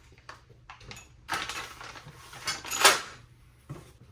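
Cardboard box and packaging of new parts being handled and opened: a few short rustling, scraping swishes, the loudest near three seconds in.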